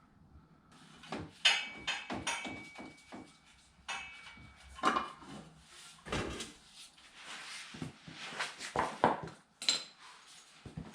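Hand tools clinking and knocking on metal, irregular strikes, some ringing briefly, while the bolts of an exhaust manifold bracket are undone.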